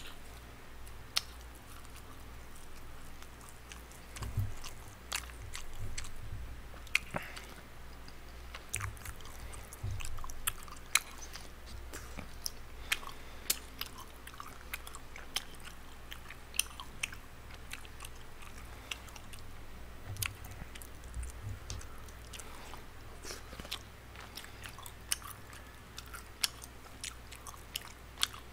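A man chewing a mouthful of food close to the microphone, with scattered small wet mouth clicks and soft smacks.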